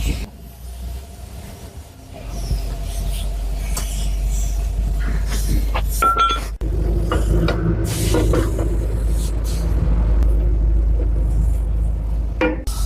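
A loud, steady low rumble that starts about two seconds in, with scattered clicks and knocks over it.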